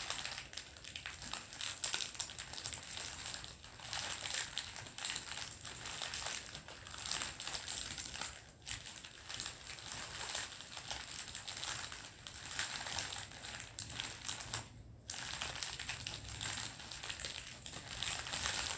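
Plastic candy wrapper being crinkled and crumpled by hand, in irregular bursts of crackling with a couple of short pauses.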